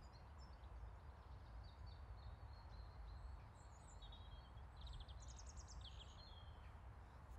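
Small birds singing and chirping faintly over a low steady rumble, with a quick trilled phrase about five seconds in.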